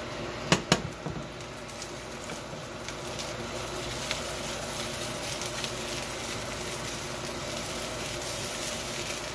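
Fried rice sizzling steadily in a hot wok as it is tossed and stirred. Two sharp knocks come about half a second in, a fifth of a second apart, followed by scattered light clicks of stirring.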